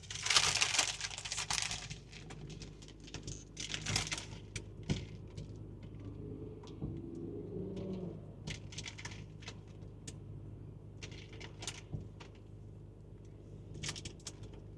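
Rustling, crinkling and small clicks of things being handled inside a car. The loudest rustles come at the start and again about four seconds in, over a low steady hum.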